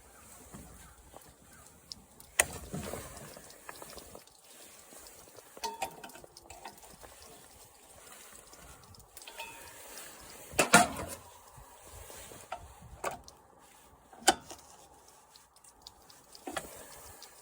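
Scattered sharp knocks and clinks of hand tools and parts during the teardown of a lawn mower engine. The loudest come about two and a half seconds in and again near eleven seconds.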